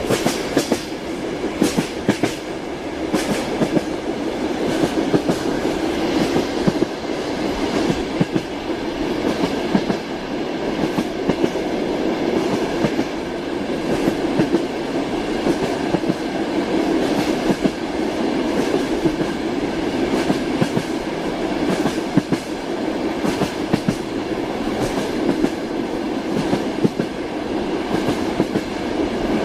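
A moving train with its wheels clacking over the rail joints: a steady rumble of rolling wheels with frequent sharp clacks at irregular spacing.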